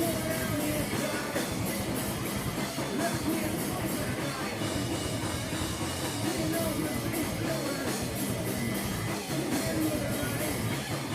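Live rock band playing a song, with a drum kit driving the beat under loud, continuous amplified instruments.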